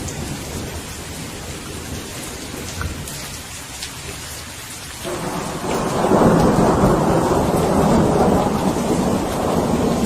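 Steady rain falling, with a roll of thunder that swells up about five seconds in and keeps rumbling.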